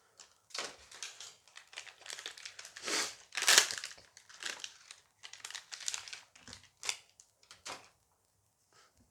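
Foil booster pack wrapper being crinkled and torn open by hand: a run of irregular crackles and rustles, loudest about three and a half seconds in.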